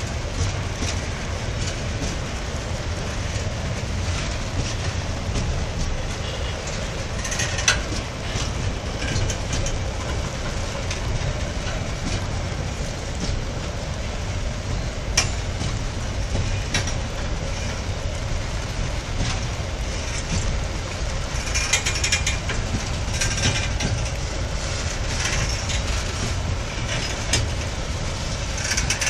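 Empty freight wagons of a long train rolling past close by: a steady low rumble of steel wheels on rail, with scattered sharp metallic clanks that cluster about three quarters of the way through.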